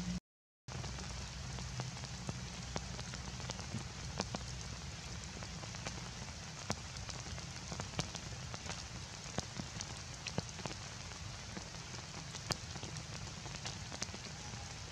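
Heavy rain pouring on a corrugated metal roof and concrete ledge: a steady rushing hiss, with many sharp ticks of single drops hitting close by. The sound cuts out completely for about half a second just after the start.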